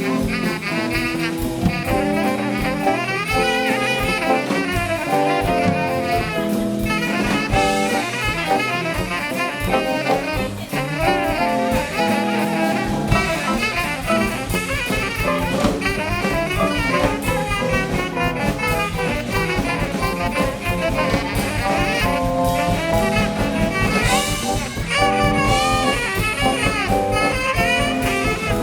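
Live band playing jazz, with horn lines in held, stepping chords over drums; the bass and drums come in fuller about halfway through.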